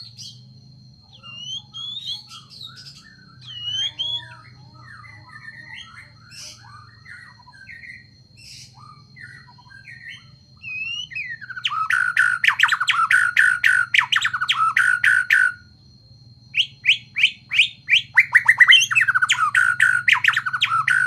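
A songbird singing: scattered varied chirps and short whistled glides, then about halfway in, loud fast trilled phrases repeated rapidly in two long runs with a short break between them. A faint steady high tone and a low hum run underneath.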